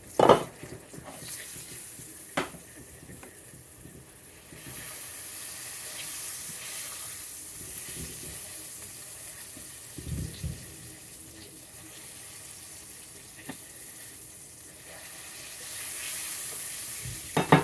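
Kitchen sounds: a steady hiss that comes in about four seconds in, with a few sharp knocks of pans and utensils, the loudest right at the start and near the end.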